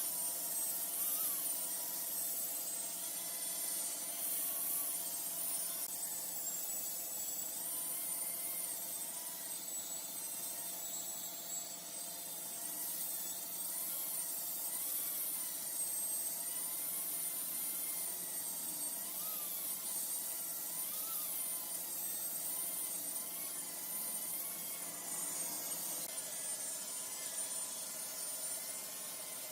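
Large woodworking lathe running steadily: a constant motor hum with a high whine that wavers in pitch above it.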